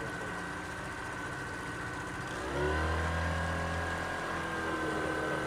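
Boat motor running steadily. About two and a half seconds in it speeds up, its pitch rising and getting louder, then holding at the higher note.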